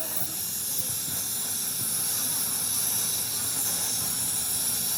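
Steady, even hiss, strongest high up.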